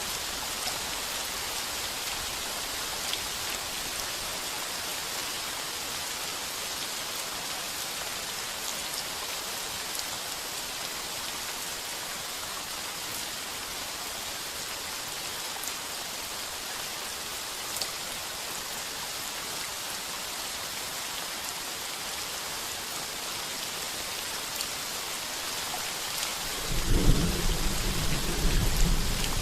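Heavy rain pouring steadily on a tin roof, a dense even hiss with scattered drop ticks. Near the end a loud rumble of thunder breaks in and keeps rolling.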